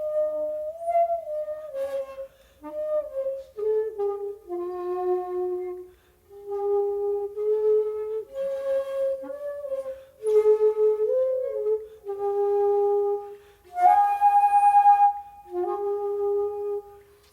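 Solo shakuhachi, the Japanese end-blown bamboo flute, playing slow held notes that bend and slide in pitch. There is a breath break about six seconds in, and a breathy, forceful note near the end.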